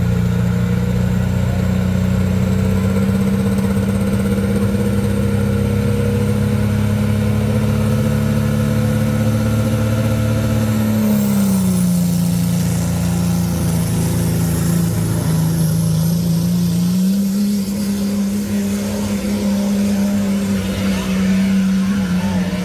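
Turbocharged engine of a Dodge pulling truck held at high revs on the line to build boost. About halfway through the note drops as the clutch is let out and the truck pulls the sled, and a faint high whistle comes in. The engine note climbs again about three quarters of the way in.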